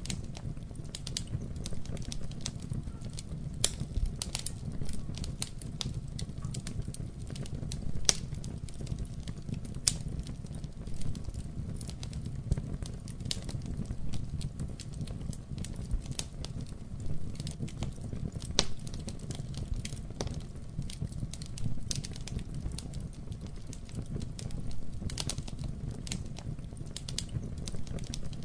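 Wood fire burning in a fireplace, with a steady low rumble of the flames and frequent irregular sharp crackles and pops.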